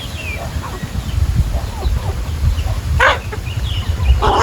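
Chickens calling, with short chirps and two louder calls near the end, over a steady low rumble.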